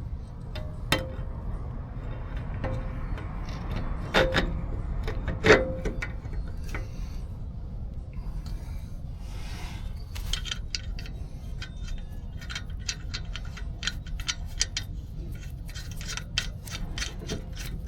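Steel suspension parts and hand tools clanking and clinking while a steering knuckle fitted with new ball joints goes back onto the truck: a few sharp metal clanks with a brief ring in the first six seconds, then a quick, uneven run of light clicks and clinks. A steady low hum runs underneath.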